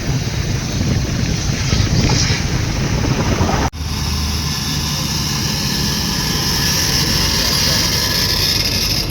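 Truck engine running steadily with a low rumble, wind buffeting the microphone. The sound breaks off abruptly a little under four seconds in and resumes with more hiss.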